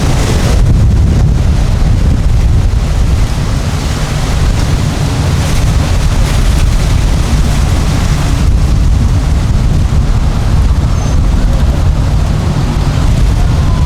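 Wind rumbling steadily on the microphone over the running of boat engines.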